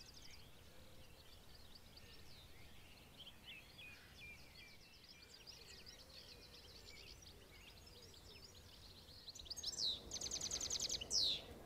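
Songbirds singing, several at once, faint. Near the end a closer bird is louder, with quick swooping notes and a fast, even trill.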